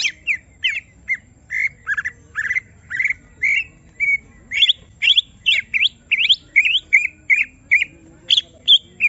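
Cucak ijo (green leafbird) singing agitated, a fast run of short, sharp chattering notes, about two or three a second. It is the excited 'emosi' song of a bird being provoked.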